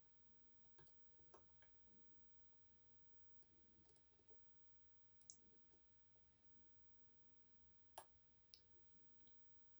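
Faint, irregular metallic clicks of a lock pick and tensioner working the sliders inside an EVVA 3KS high-security lock, the sharpest click about eight seconds in.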